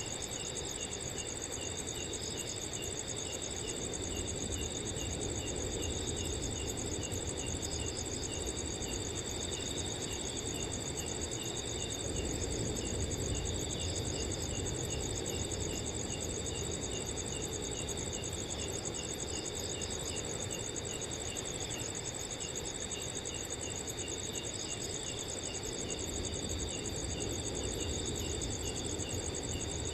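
Several crickets chirping at once, steady overlapping trills at different pitches with one short chirp repeating a few times a second, over a soft, steady rush of wind.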